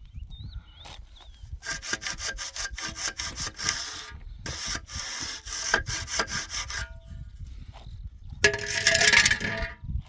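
Hand saw cutting with quick back-and-forth strokes in two runs, followed near the end by a louder, longer scraping burst.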